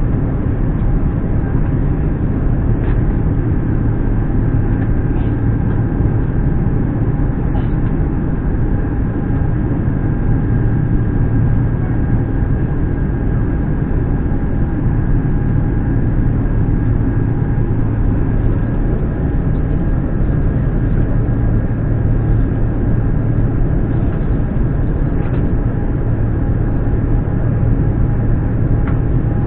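Steady cabin noise of an Airbus A350 airliner: a constant low rumble with two faint steady whining tones over it.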